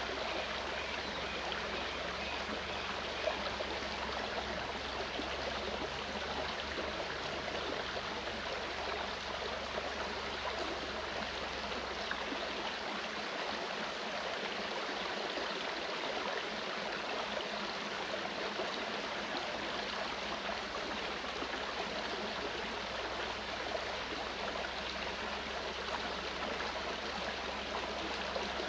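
Mountain stream flowing steadily over rocks, a constant rushing and babbling of water.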